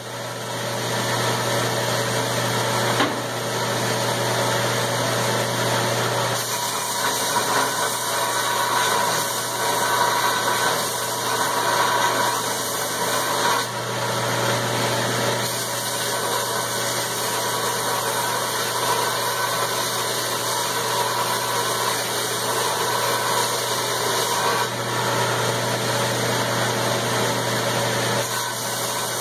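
Electric grinder with an 80-grit abrasive running steadily with a low motor hum, grinding a point on a tool-steel punch; the rasp of the grinding swells and eases a little as the steel is worked.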